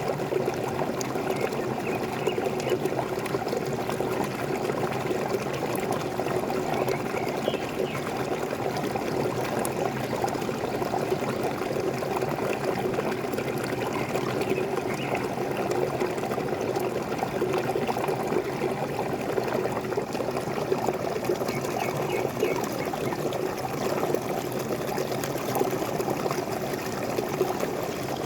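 Waterfall running in a steady, unbroken rush of falling and splashing water, with a few faint bird chirps now and then.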